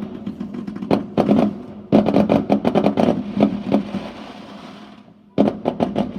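Fireworks going off in long, rapid crackling volleys of bangs. The volleys thin out and fade after about four seconds, then a fresh burst starts near the end. A steady low hum runs underneath.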